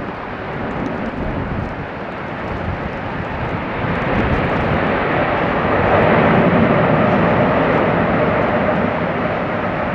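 Boeing 747 jet engines heard from outside as the airliner lands, a dense engine noise that builds and is loudest about six seconds in, then eases slightly.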